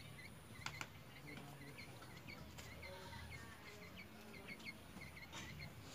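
Faint chirping of small birds: short chirps repeating several times a second, with a couple of light clicks just under a second in.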